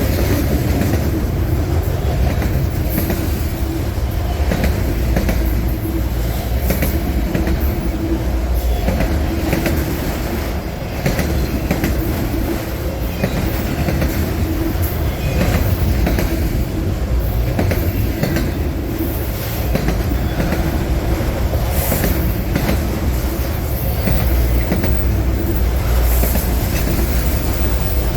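Freight cars of a long mixed manifest train rolling past at close range: a steady, loud low rumble with irregular clicks and knocks from the wheels running over the rail.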